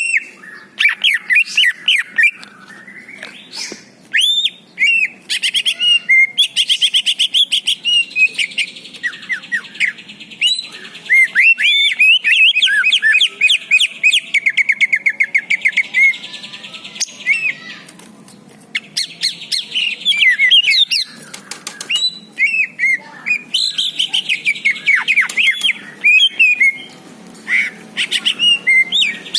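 Greater green leafbird (cucak ijo) singing a long, varied song of quick chirps, rapid trills and sweeping whistles, with short pauses between phrases.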